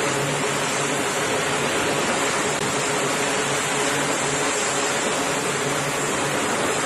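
Jet aircraft engines running steadily: a continuous rushing roar with a faint high whine held throughout.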